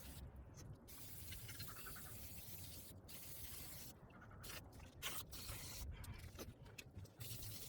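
Scrubbing of a mini bike during degreasing: a faint, uneven scraping hiss with short breaks.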